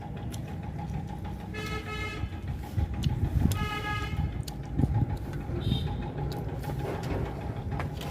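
Two short vehicle-horn honks, the second about two seconds after the first, over a steady low rumble.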